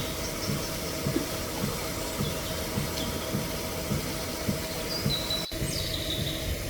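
A steady mechanical hum like a small engine running, with a bird chirping briefly near the end.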